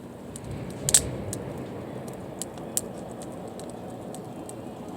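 Wood campfire crackling, with irregular sharp pops over a steady low rush; the loudest pop comes about a second in.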